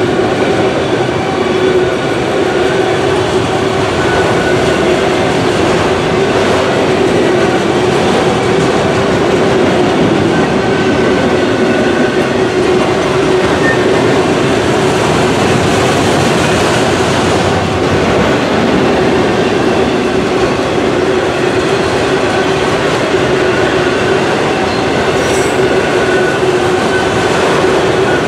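Autorack freight cars rolling past at speed: a steady loud rumble and clatter of steel wheels on rail, with a steady droning tone and a faint high wheel squeal that comes and goes.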